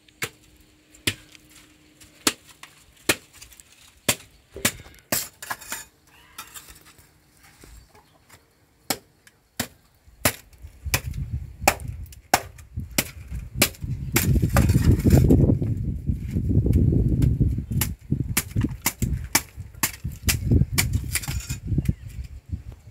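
Firewood being chopped with a blade: sharp chops about once a second. A loud low rumbling noise comes in about halfway through and lasts until near the end, with the chops still going.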